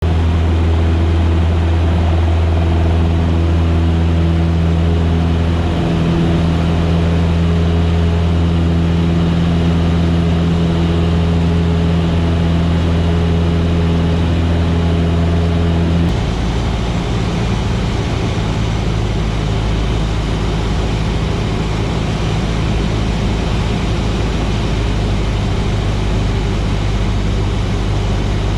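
Cessna 150's Continental O-200 four-cylinder engine running steadily, a loud drone with a heavy low hum. About halfway through the sound changes abruptly to a rougher, lower drone.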